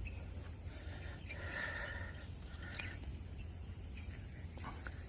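Outdoor nature ambience: a steady high-pitched insect drone with scattered bird chirps over a low rumble.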